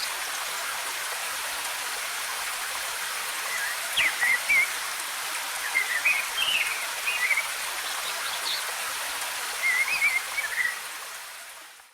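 Steady rush of a waterfall with birds chirping in short phrases over it, three bursts of song a few seconds apart. Everything fades out near the end.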